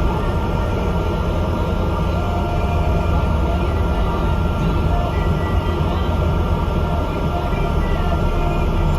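Tram replacement bus running: a steady engine and road rumble with a faint, even whine above it.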